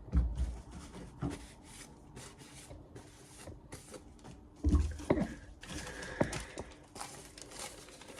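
Sheet of paper being sliced and torn by a carbon-steel axe edge in a paper-cutting test: a run of short rustling, scratchy strokes with a couple of dull handling knocks, one just after the start and one about halfway through. The blade cuts but tears rather than slicing cleanly, because the steel is thick behind the edge.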